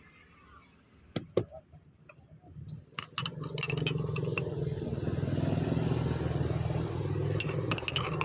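A motor vehicle's engine running for several seconds, rising in about three and a half seconds in and fading near the end. A few sharp clicks and clinks are heard before it and over its end.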